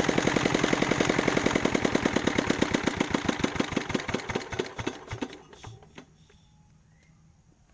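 Single-cylinder dompeng diesel engine, recently submerged in floodwater, running with a steady knock of firing strokes, then slowing as the strokes spread apart and coming to a stop about halfway through.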